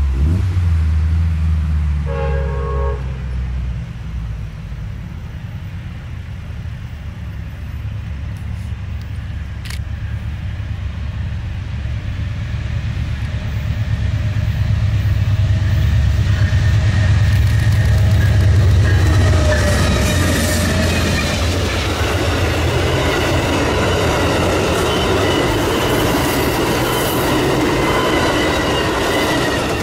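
Amtrak passenger train led by a GE P42DC diesel locomotive: a short horn blast about two seconds in, then the diesel's low rumble building as it approaches, and the horn sounding again with the rush of the locomotive and passenger cars rolling past in the second half.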